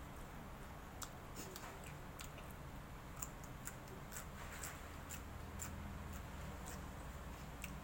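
A person eating and chewing, with irregular small sharp clicks a few times a second over a low steady hum.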